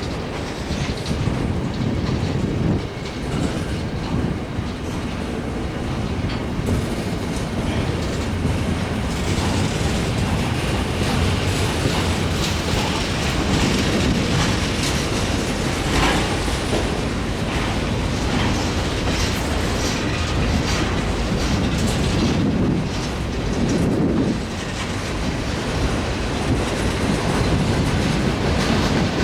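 Long CSX freight train rolling past, its car wheels clicking over the rail joints in a steady stream.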